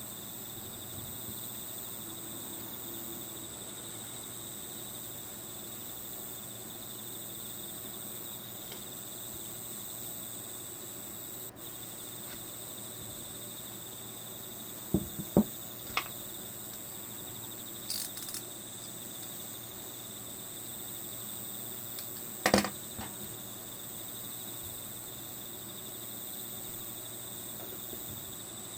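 Steady background of crickets trilling, with a few sharp clicks and taps from work on a plastic model kit: a small cluster about halfway through and the loudest one about three-quarters of the way through.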